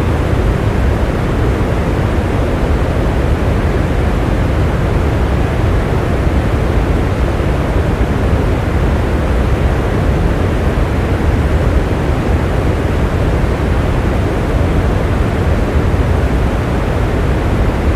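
Steady rain: a loud, even rushing noise with a deep rumble underneath and no single drops or thunderclaps standing out.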